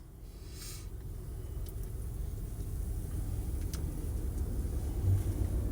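Low, steady rumble of a car, slowly growing louder.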